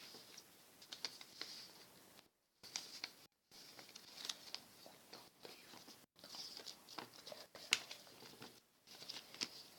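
Sheet of paper being folded and creased by hand: a rustle with small crackles and ticks as the folds are pressed down. The sound cuts out to silence briefly a couple of times in the first few seconds.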